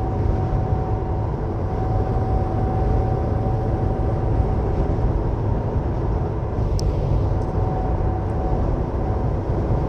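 Steady low rumble of a semi truck's engine and tyres, heard from inside the cab while it drives along the highway. A faint steady whine runs under it, and there is one brief click about seven seconds in.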